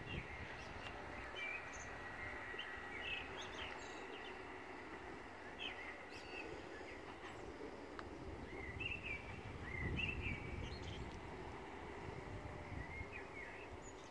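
Small birds chirping and singing in short phrases again and again, over a steady low rumble.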